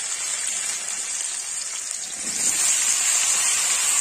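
Hot oil sizzling in a kadai as cubes of mati aloo (yam) are dropped in to fry lightly, the sizzle growing louder about two and a half seconds in as more pieces go in.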